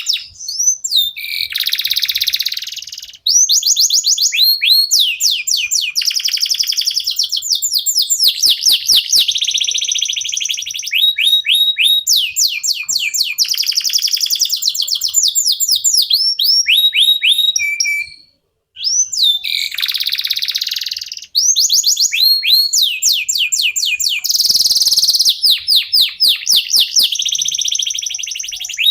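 Domestic canaries singing: long runs of fast, evenly repeated trills and rolling phrases, high-pitched, with a brief pause about eighteen seconds in.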